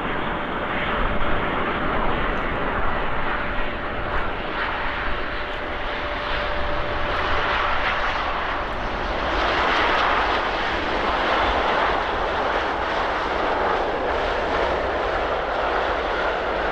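Boeing 787-8 airliner's jet engines, a continuous rushing noise with a thin steady whine that fades out about halfway through, followed by a swell in the noise.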